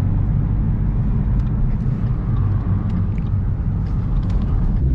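Ford Mustang GT's V8 engine pulling hard at full throttle, heard from inside the cabin, with steady road and wind noise over a deep engine sound.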